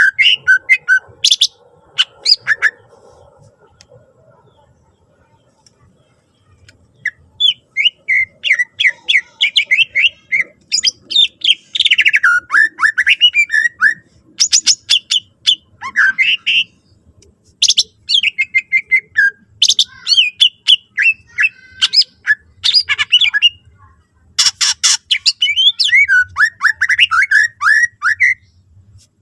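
Cucak ijo (green leafbird) singing rapid strings of chirps, whistled notes and sharp calls in a varied song full of mimicked phrases. There is a pause of a few seconds near the start before the song resumes densely.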